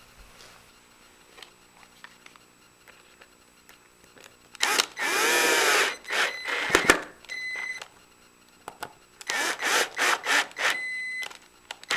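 Power drill driving screws into wood: one longer run about five seconds in, followed by several short trigger bursts as the screws are snugged down, then another group of short bursts a few seconds later.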